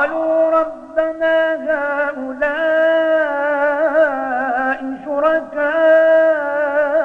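A male Quran reciter chanting in a melodic tajweed style, drawing out long ornamented notes that waver in pitch, with brief breaks about a second in and about five seconds in.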